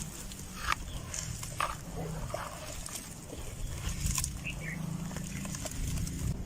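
Dry, dusty red dirt crumbling, with a few sharp cracks spaced a second or more apart over a low, steady rumble.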